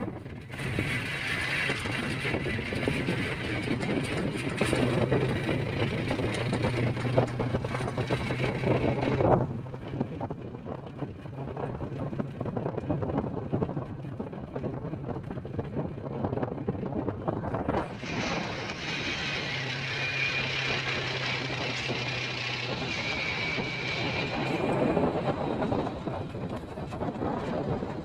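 A vehicle driving with its engine running, under a steady haze of road and wind noise. The sound grows louder for two stretches, over the first third and again after the middle.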